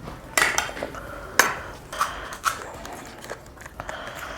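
A few sharp, brief cracks and crunches at uneven intervals, heard while eating crisp fuchka (pani puri) shells. The sharpest comes about a second and a half in.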